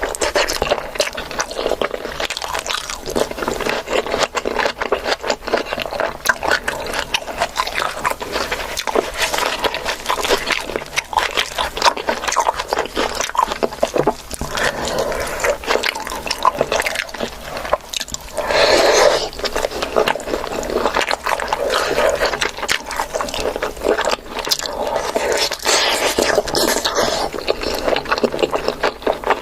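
A person eating: wet chewing and mouth sounds with many short clicks and smacks throughout.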